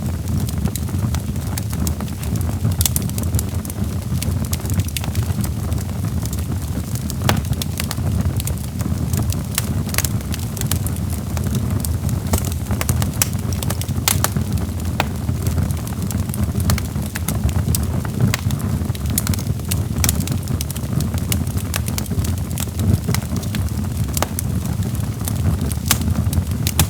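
Wood logs crackling in a fireplace: irregular sharp pops and snaps over a steady low rumble of burning.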